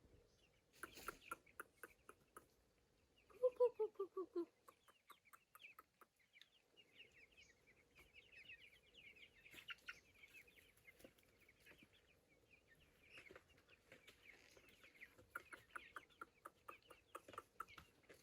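Chickens clucking: a loud run of about six quick, falling clucks about three and a half seconds in, then many short high chirps and scattered faint ticks.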